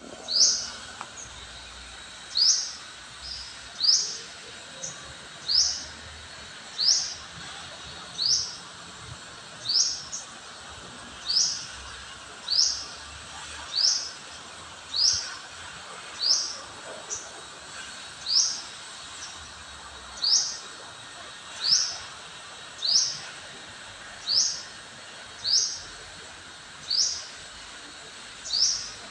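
A bird calling: a single short, high note that sweeps down in pitch, repeated at an even pace about every second and a half, over a faint steady background hiss.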